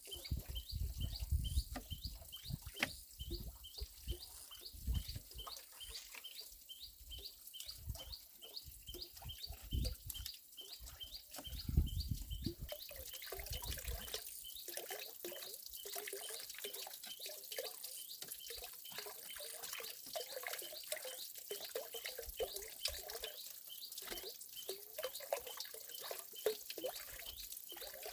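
Birds chirping, with water trickling through the second half and low bumps and knocks in the first half.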